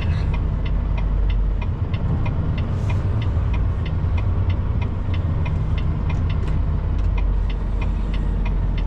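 Semi truck's diesel engine running steadily, heard from inside the cab, with a regular light ticking about three times a second.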